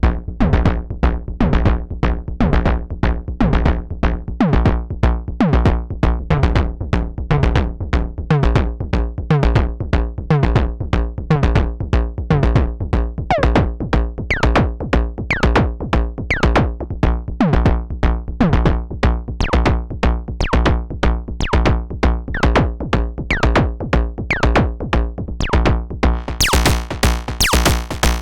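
A semi-modular analog drum synthesizer playing a sequenced percussion pattern, several hits a second, many with a falling pitch sweep, over a steady low bass tone. About two seconds before the end, the hits turn bright and hissy as noise is brought in.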